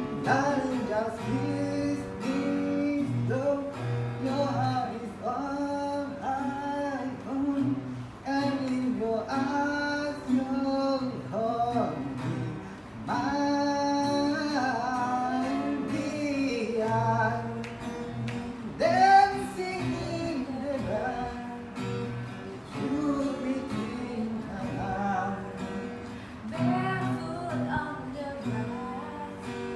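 A voice singing a melody over strummed acoustic guitar.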